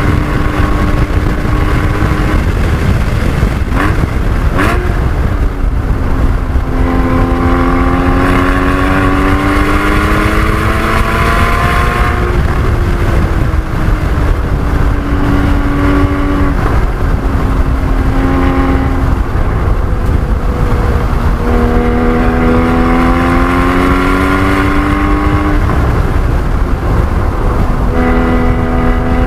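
Porsche 981 Cayman GT4's 3.8-litre flat-six under hard track driving: the engine note climbs steadily through the revs several times, then drops back as it shifts or lifts, over a constant heavy rumble of wind and road noise. A couple of sharp knocks come about four seconds in.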